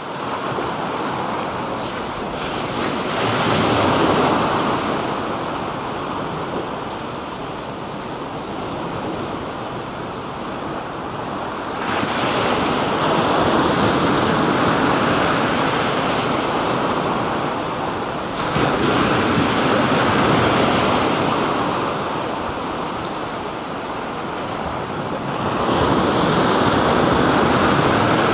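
Black Sea waves breaking and washing on the shore, the surf swelling and easing about every six to eight seconds.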